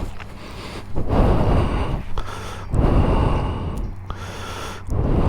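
A man breathing heavily close to the microphone, three long breaths in and out.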